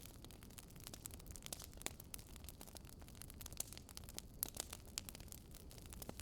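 Campfire with wood burning: faint, irregular crackles and pops over a low, steady rumble.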